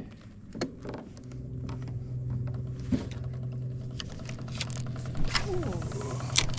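Electric trolling motor running with a steady hum that builds over the first second or two, with several sharp knocks and clicks on the boat.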